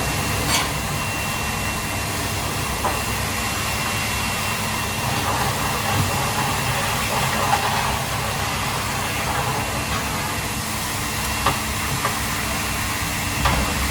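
Steady hissing kitchen background noise with a faint high whine, broken by a few sharp clicks of utensils or cookware.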